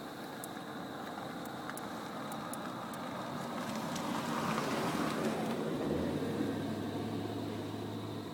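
A motor vehicle passing by: its noise swells to a peak about halfway through and then fades, with a steady low engine hum setting in near the end.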